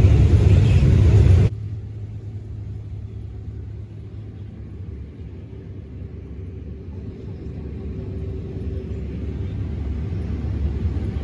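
Heavy engine running with a steady low rumble. A louder, noisier stretch cuts off abruptly about a second and a half in, and the rumble then slowly builds again.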